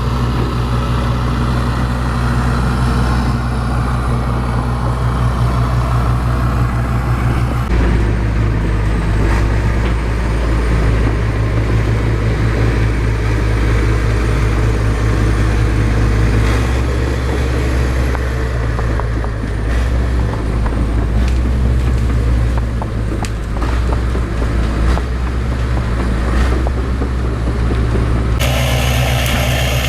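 Bulldozer's diesel engine running steadily, with a scatter of short knocks and clanks from the machine at work. The sound shifts abruptly about eight seconds in and again near the end.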